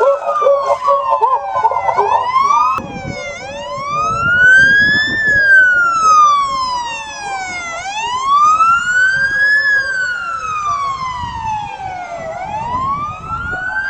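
Emergency vehicle siren wailing, its pitch rising and falling slowly about every four to five seconds. Another siren with a faster wavering pitch overlaps it for the first few seconds.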